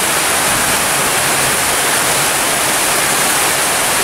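Heavy rain pouring down, strengthened by the wind, a steady unbroken rush.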